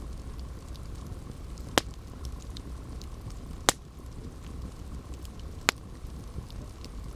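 Wood fire burning with a steady low rumble and light crackling, and three sharp, loud pops, about two seconds apart.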